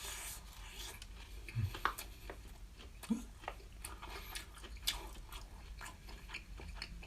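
Close-up chewing and biting of battered tempura shrimp, the fried coating crunching in irregular bites.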